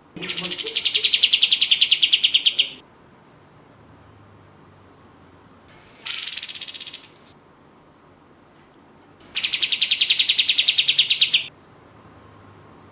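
Kapas tembak songbird giving three rapid, rattling trills of evenly spaced notes, fired like bursts of shots: a long trill that starts high and drops to a steady pitch, a short higher one about six seconds in, and a second long one near the end.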